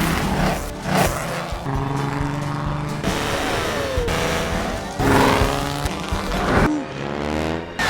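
Car engine sound effects from an animated film, cut together in short pieces: engines running and revving, with a tire squeal. The sound changes abruptly every second or two, with a falling pitch about four seconds in and a rising rev near the end.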